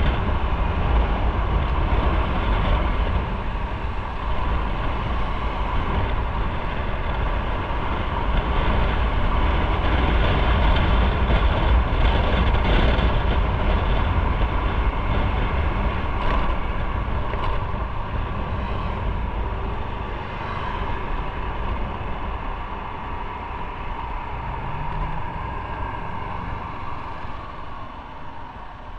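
Motorcycle riding on the road: engine running under a dense rush of road and wind noise, getting quieter over the last several seconds.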